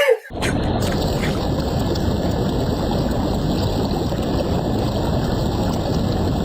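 A steady rushing noise that starts suddenly about a third of a second in and holds at an even level throughout.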